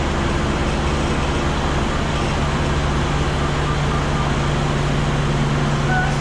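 Diesel engine running steadily, a constant low hum that does not change.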